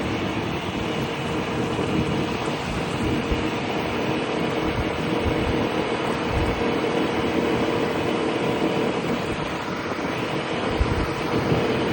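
Piaggio Liberty 125 scooter's single-cylinder four-stroke engine running at a steady cruise, with road and wind noise. Low wind rumbles on the microphone come and go.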